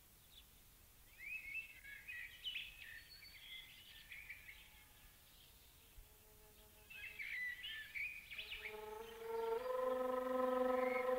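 Small songbird chirping in two spells of quick twittering phrases. Near the end a held, organ-like musical chord fades in.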